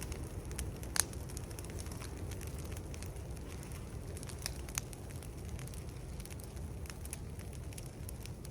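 Outdoor wood fire of a burning brush pile crackling, with a steady low rush and scattered sharp pops, the loudest about a second in.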